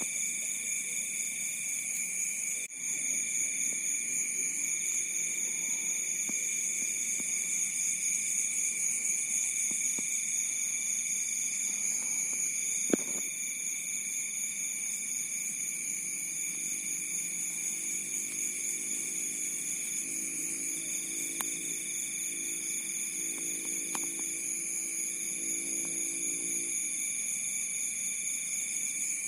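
A chorus of crickets trilling steadily in several overlapping high pitches, with one cricket singing in phrases a couple of seconds long that start and stop. A single sharp click sounds about 13 seconds in.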